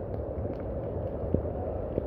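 Steady rain with a low rumble underneath, and a single sharp tap about a second and a half in.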